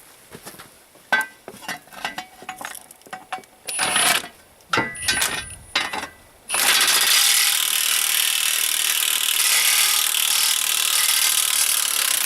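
Hard metal clanks, knocks and scraping as the hot wheel nut is worked loose and pushed out. About six and a half seconds in, a loud, steady power-tool noise starts and holds without a break.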